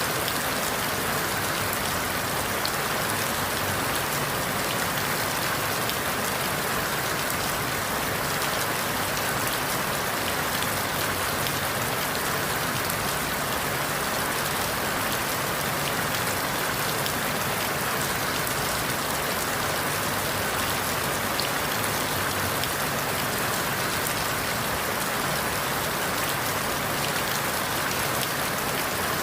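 Steady rain falling through forest leaves, a dense even hiss with fine scattered drop ticks.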